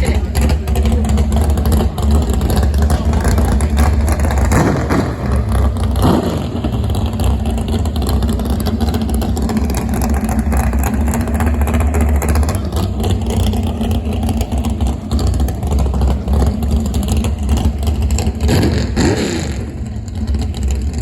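Boat engine running with a loud, steady low rumble and a held drone. A few times it swells in pitch up and back down.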